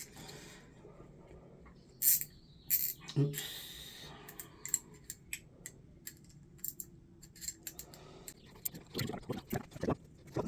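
Scattered clicks and taps of a cartridge puller and hand tools being handled at a shower valve. Two sharper clicks come about two seconds in, and a run of knocks comes near the end.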